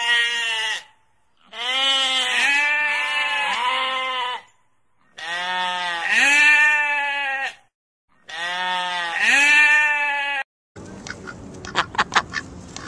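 Sheep bleating: repeated wavering bleats in three separate runs with short silent gaps between them. Near the end the bleating stops and gives way to a steady hiss with a quick cluster of sharp clicks.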